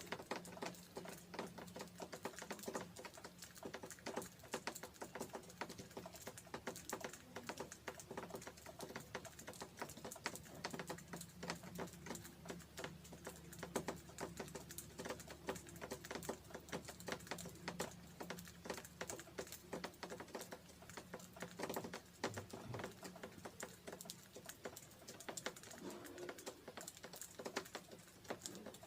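Budgerigars eating, a dense, irregular stream of small clicks as they crack and husk seeds and peck at their food.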